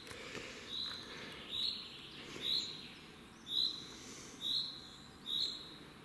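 A small songbird calling: one short, high note repeated about once a second, each note sliding up quickly and then holding.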